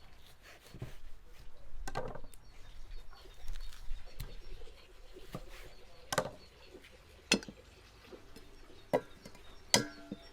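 Scattered sharp knocks and clicks, with four stronger ones in the second half; the last one rings briefly.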